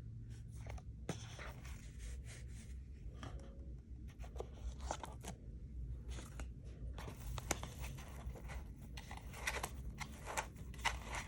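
Packaging of LED bulbs being handled and opened: irregular rustling and crinkling with a few sharp clicks, busiest in the last few seconds.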